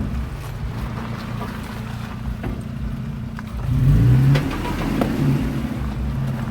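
Toyota Tacoma pickup's engine pulling at low speed over a rocky off-road trail, revving up briefly about four seconds in, with a few sharp knocks.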